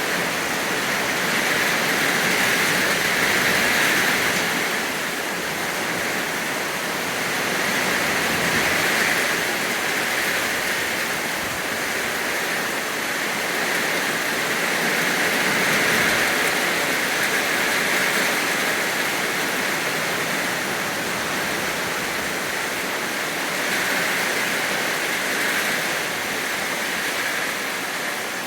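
Steady rain falling: an even hiss of water that swells and eases slowly every few seconds.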